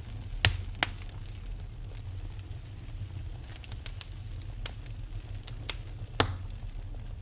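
Wood fire in a fireplace crackling over a steady low rumble, with sharp pops: two close together near the start, a loud one about six seconds in, and fainter crackles between.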